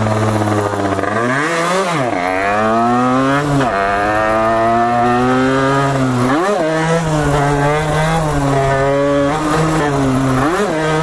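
Small single-cylinder two-stroke dirt bike engine, a 49cc built up to 80cc, being ridden. Its revs climb and then drop sharply at each gear change, about three times in the first half, then hold steadier.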